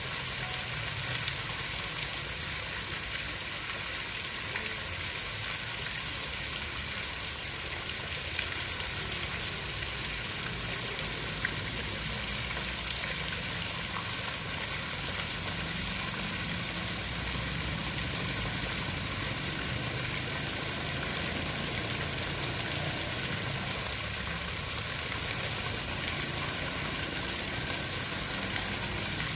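Steady water sound, a dense even hiss with faint scattered crackling ticks and a low rumble underneath, like rain or running water.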